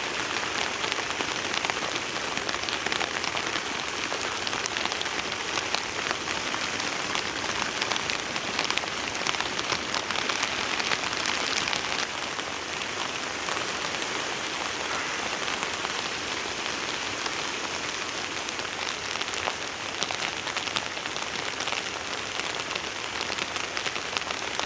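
Heavy rain falling steadily, many individual drops ticking on a surface.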